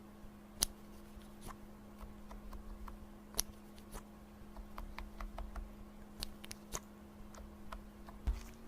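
Slime being handled: faint, scattered clicks and small pops, about one or two a second, over a steady low electrical hum.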